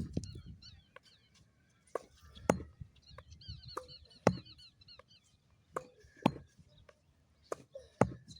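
Tennis ball struck back and forth in a rally: sharp racket hits and ball bounces on the court, often in pairs about half a second apart, every second or two. A bird chirps quickly in a short run near the middle.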